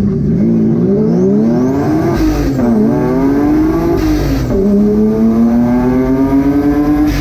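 Twin-engine, twin-turbo Mazda MX-3 accelerating hard at full throttle. The engine note climbs steeply in each gear and drops back at three quick upshifts, about two seconds apart, with a brief rush of noise at each shift.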